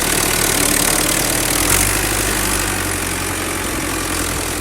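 An engine idling steadily, a little louder in the first second or two.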